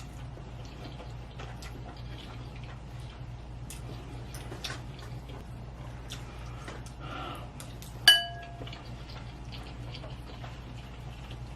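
Close-miked eating sounds: scattered small wet mouth clicks of chewing noodles over a steady low hum. A little after eight seconds comes one sharp, ringing clink of tableware, the loudest sound in the stretch.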